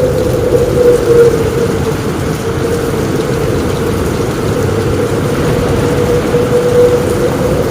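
Heavy rain on a roof, a steady, dense low rush with no breaks.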